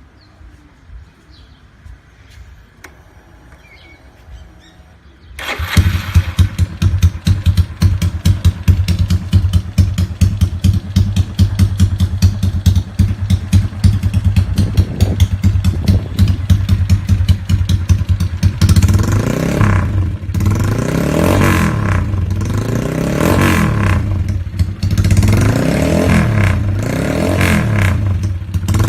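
Motorcycle fitted with a tuned aftermarket exhaust pipe: after a few quiet seconds the engine comes in abruptly about five seconds in and runs at idle with a rapid, even exhaust beat. Roughly two-thirds of the way through, the throttle is blipped again and again, the revs rising and falling in a string of short bursts.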